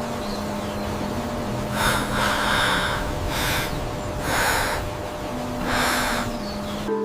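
Slow, audible breathing: four long breaths, each swelling and fading over a faint steady hum.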